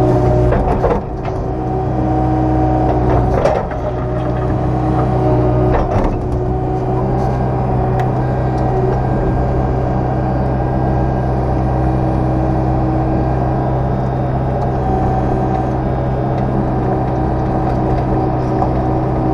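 Excavator's diesel engine running steadily as it works a stone stack, with a few sharp knocks and scrapes in the first six seconds from the bucket on the stone.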